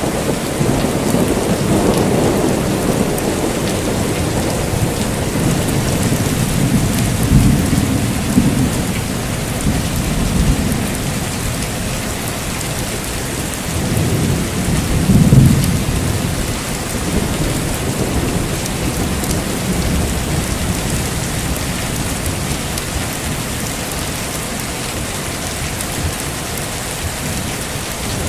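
Heavy rain falling steadily, with thunder rumbling through it in several long low rolls, the loudest about halfway through.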